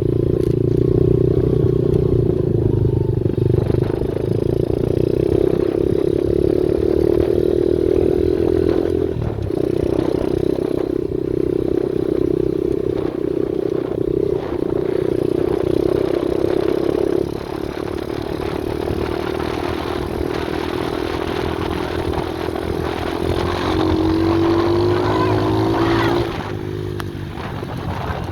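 125cc pit bike engine running while being ridden, its pitch changing with the throttle; it revs up about three-quarters of the way through, then drops off sharply.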